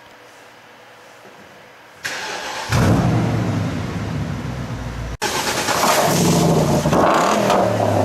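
BMW 645Ci's 4.4-litre V8 through a loud custom muffler (not straight-piped) being started: the starter cranks about two seconds in, the engine catches a moment later with a loud flare, then runs loud with the revs rising and falling.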